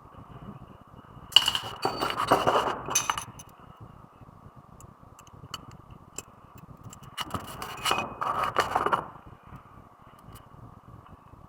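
Metal parts and tools clinking and scraping against each other during front brake pad work, in two bursts of a couple of seconds each: one starting about a second in and another about seven seconds in.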